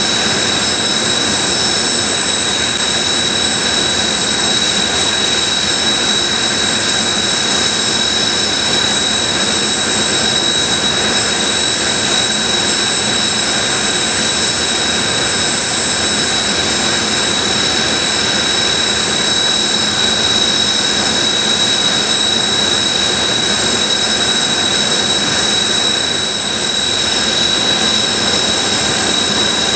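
Kawasaki T-4 jet trainers' turbofan engines running at ground idle, a loud steady whine with constant high-pitched tones over the rush of the jet noise.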